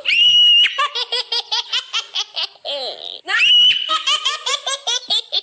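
High-pitched laughter: a squeal followed by a quick run of short giggles, and the same pattern again about three seconds in.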